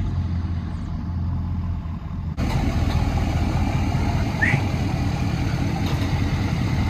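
Pickup truck engine running steadily with a low hum. About two and a half seconds in the sound changes abruptly to a fuller engine-and-road noise.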